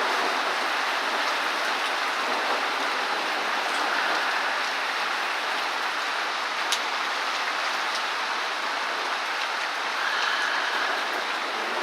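Torrential rain pouring steadily, a dense even hiss, with one sharp tick about two-thirds of the way through.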